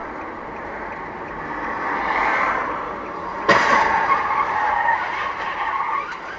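Car tyres skidding on the road, then a sudden crash impact about three and a half seconds in, followed by noise that carries on and fades near the end.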